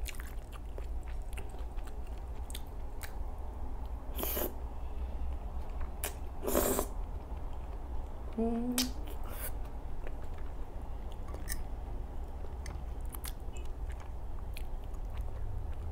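Close-miked open-mouthed chewing of creamy pasta: wet smacking with many small lip and tongue clicks. There are two louder noisy bursts, about four and six and a half seconds in, and a brief hummed 'mm' with the mouth full just after eight seconds.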